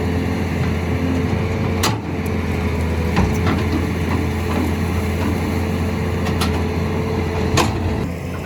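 Heavy diesel machine engine running steadily, with a few sharp knocks or clanks over it.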